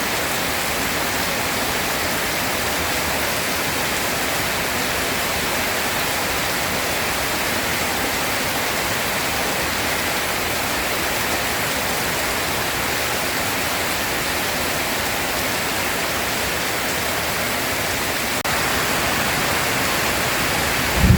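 Steady heavy rain, an even hiss that grows slightly louder near the end. Right at the close, a low thunder rumble begins.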